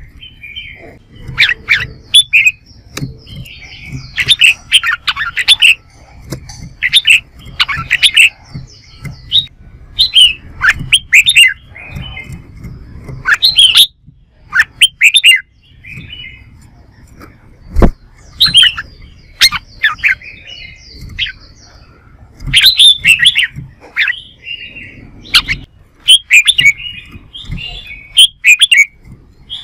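Red-whiskered bulbuls singing their competitive 'fight' song: loud, short, quickly varying whistled phrases repeated one after another. A single sharp click sounds a little past the middle.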